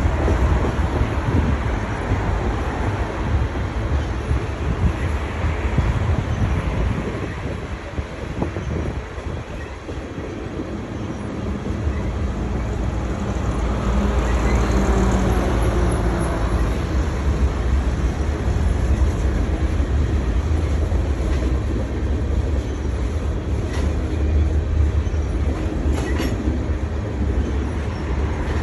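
A long freight train's wagons rolling past: a steady, loud rumble and rattle of wheels on the rails, easing briefly about a third of the way through before building again.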